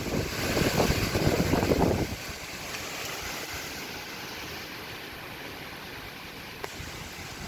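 Cyclone-force wind: a strong gust buffets the microphone with low rumbling for about two seconds, then eases to a steady rushing hiss.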